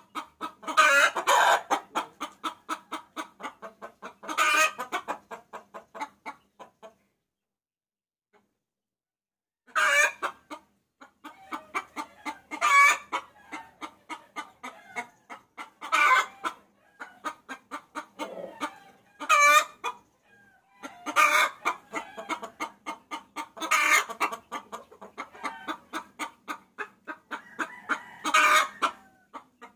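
Hen cackling in long runs of rapid clucks, about five a second, broken every few seconds by a louder, drawn-out squawk, with a silent pause of about three seconds a quarter of the way in. It is the hen's call to a rooster, used as a lure call.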